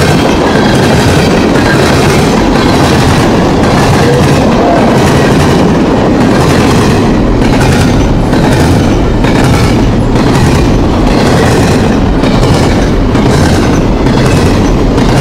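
Railroad cars rolling past at close range: a loud steady rumble with wheels clicking rhythmically over rail joints.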